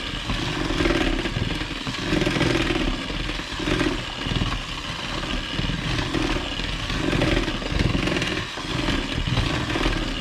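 Electric kitchen mixer motor running continuously as it beats cream cheese, its sound swelling and dipping every second or two.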